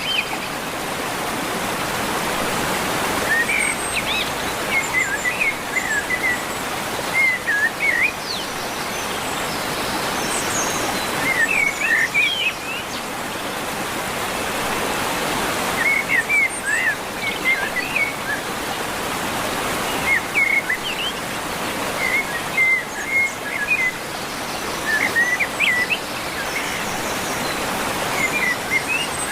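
Songbirds chirping in short clusters of quick notes every few seconds over a steady rush of running water.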